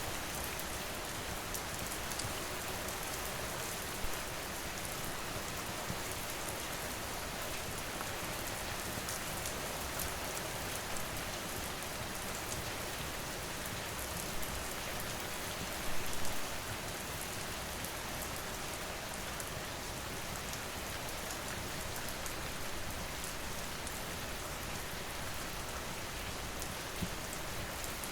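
Steady rain falling on surfaces as an even hiss, with a few short sharp pops over it, the loudest cluster just past halfway.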